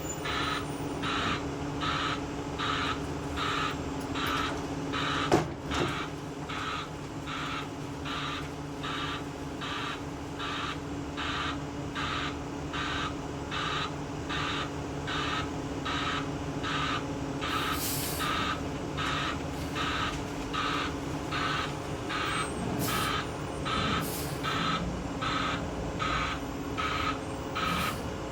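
Concrete mixer truck backing up: its reverse alarm beeps steadily, about three beeps every two seconds, over the diesel engine's steady running. There is one sharp knock about five seconds in, and a few short bursts of air hiss near the end.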